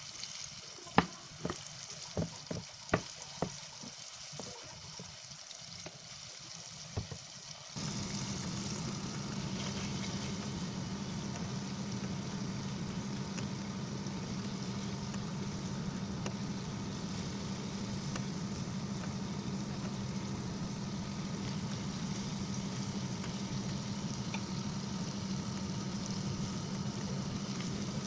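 A few sharp kitchen-utensil taps, then about eight seconds in a steady frying sizzle starts suddenly, with a low hum under it, and runs on evenly.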